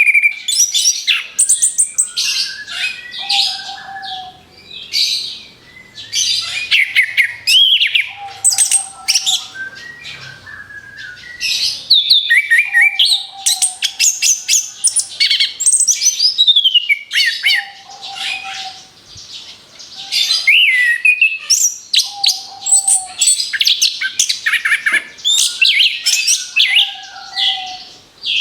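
Orange-headed thrush singing a continuous, rapid-fire song of varied whistles, slurs and fast trills, with a short lower note repeating every three to four seconds.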